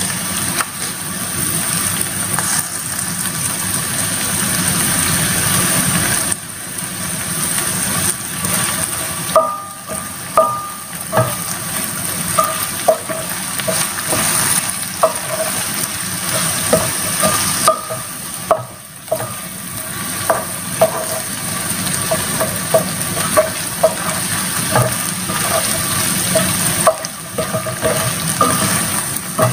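Chicken, shrimp and vegetables sizzling steadily in a hot nonstick pan as a spatula stirs them. From about a third of the way in, the spatula scrapes and knocks against the pan again and again.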